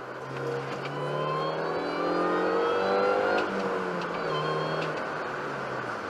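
Car engine accelerating hard, its pitch climbing for about three seconds before the revs drop away near the middle, with road noise throughout.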